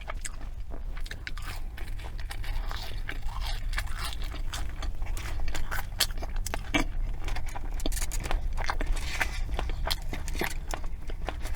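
Close-miked eating of McDonald's fast food: biting and chewing, with many small crunches and wet mouth clicks.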